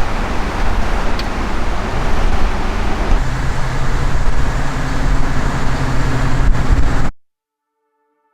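Lake waves washing on the shore, with wind rumbling on the microphone: a loud, steady rush that cuts off abruptly about seven seconds in. Faint music tones follow near the end.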